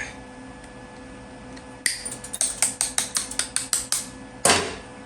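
A quick run of about a dozen light taps on metal parts over two seconds, then one louder clank that rings away briefly.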